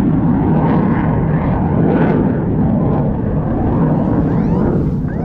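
Loud, steady engine drone over rushing noise, joined near the end by a rising whine.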